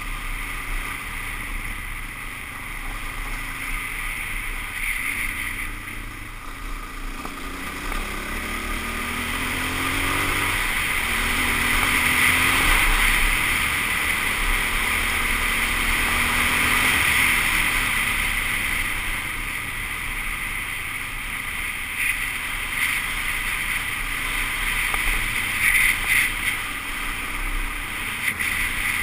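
Suzuki DR-Z400S dual-sport motorcycle's single-cylinder four-stroke engine running on a dirt road ride, its pitch rising a couple of times as it accelerates. A steady rush of wind noise on the microphone covers it.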